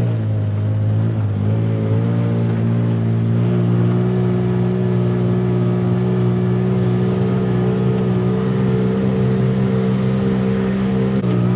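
A vehicle engine running at a steady speed. Its pitch wavers for the first second or two, then holds steady.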